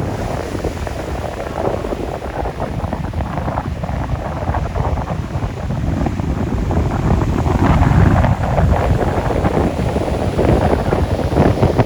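Wind buffeting the microphone over ocean surf, a loud uneven rushing strongest in the low end.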